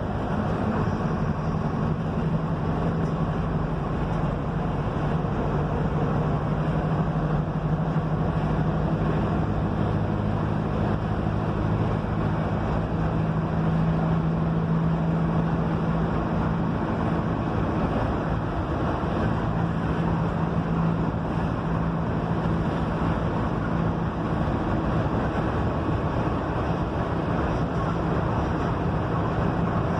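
Mercedes-Benz OF-1721 bus running at steady cruise, its engine a constant drone that shifts a little in pitch, over continuous road and wind noise.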